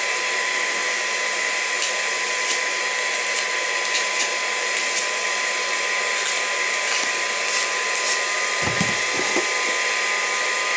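Hot-air gun blowing steadily, a continuous airy hiss with a steady motor whine and a few faint ticks.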